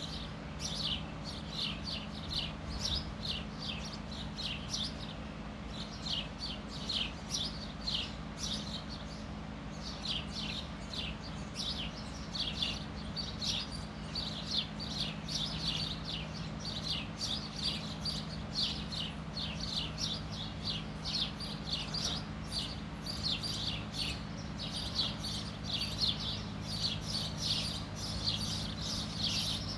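Birds chirping: a steady stream of short, high chirps, several a second, over a constant low hum.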